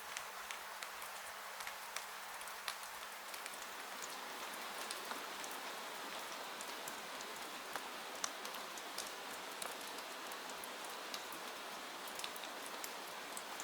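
Steady rain hiss with scattered sharp ticks of drops landing close by.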